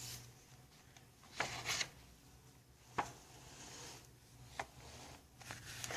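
Pages of a paper book being leafed through and handled: several short rustles and a light click as the pages are turned to find a dated entry.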